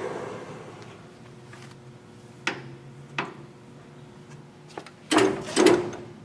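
Yang engine lathe running down and falling quiet, then a couple of sharp clicks and two loud clunks about five seconds in as its controls and feed levers are worked.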